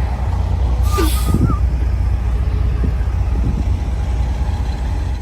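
A vehicle engine running with a steady low rumble. About a second in there is a brief hiss with a short warbling tone.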